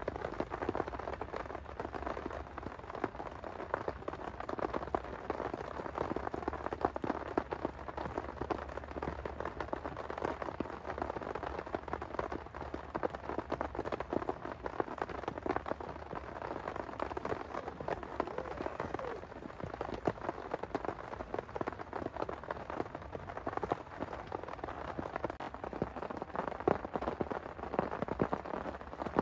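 Heavy rain falling steadily, many individual drops striking a surface close by.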